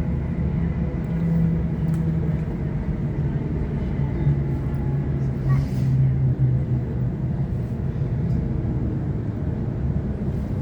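Interior running noise of a Sydney Trains Waratah electric multiple unit under way: a steady rumble with a low motor hum that steps down in pitch about four seconds in, and a faint steady high whine above it.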